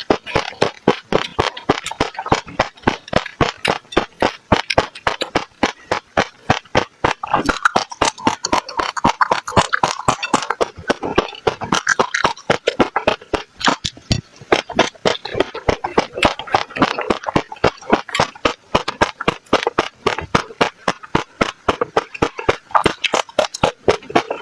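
Passion fruit seeds crunched between the teeth close to the microphone: a rapid, unbroken run of crisp pops and cracks, several a second.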